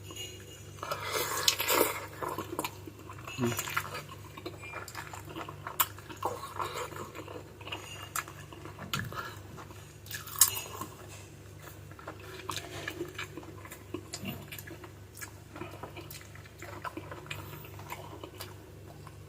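Close-miked chewing and sucking on chicken feet adobo: irregular wet clicks, smacks and slurps, with occasional clinks of cutlery on a plate, over a steady low hum.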